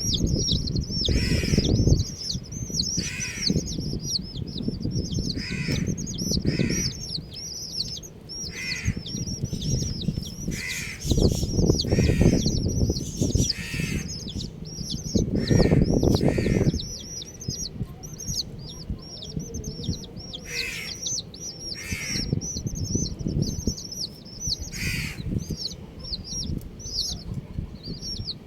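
Many baby chicks peeping continuously in high, rapid chirps, with an occasional lower, louder call. Bursts of low rumbling noise rise under the peeping at the start and twice in the middle.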